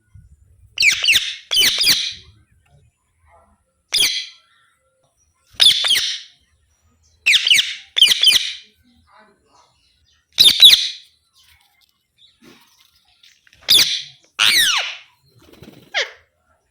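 Alexandrine parakeet calling: about ten short calls, each sliding down in pitch, spaced irregularly with quiet gaps and several coming in quick pairs.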